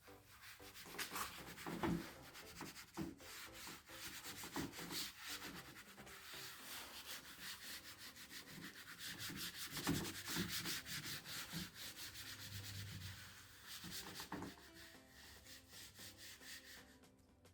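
Rubbing and scrubbing strokes on a hard surface, faint and irregular, while a part of an old desktop PC is cleaned or sanded by hand. There is a louder knock about two seconds in and again about ten seconds in.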